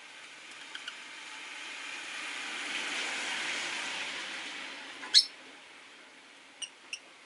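Rosy-faced lovebirds chirping: two faint short chirps near the start, one loud sharp chirp about five seconds in, and two more short chirps near the end. Under them, the hiss of a car passing on a rain-wet street swells and fades away.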